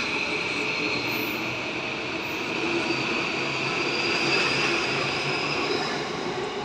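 E235 series 1000 electric multiple unit accelerating away from the platform as it departs, its wheels and running gear giving a steady rolling noise. High steady tones sit over the noise, with a fainter whine that rises slowly about halfway through.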